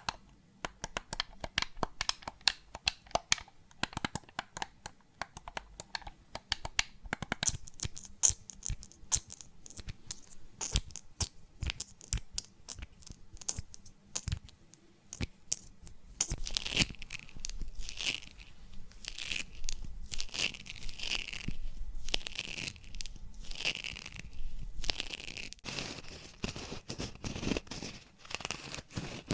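A run of close-miked ASMR trigger sounds. Quick, sharp tapping and clicking fill the first half, growing brighter and higher about seven seconds in. From about the middle on come longer scratchy tearing and crinkling strokes.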